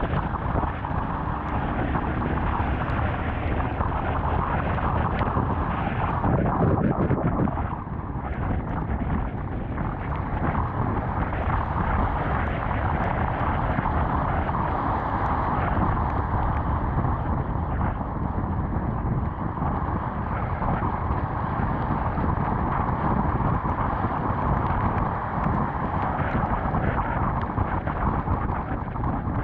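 Steady rush of wind noise on a GoPro action camera's microphone during a motorcycle ride on a Honda CBR250R, with engine and wet road noise underneath. It swells for a moment about six seconds in and drops back about a second and a half later.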